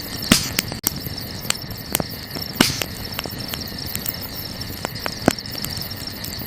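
A wood campfire crackling, with irregular sharp pops, two louder ones shortly after the start and near the middle, over a steady high-pitched chorus of night insects.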